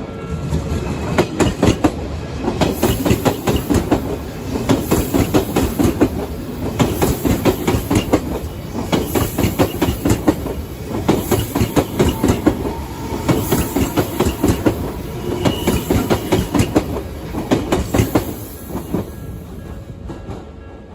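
Odakyu Line train passing, its wheels clattering over the rail joints in repeated clusters of beats, fading away near the end.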